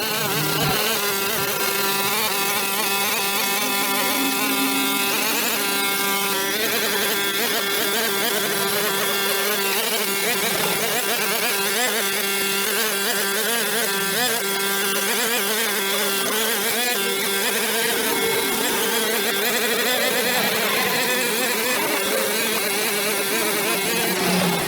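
A small engine running at a steady speed, with a steady hiss on top.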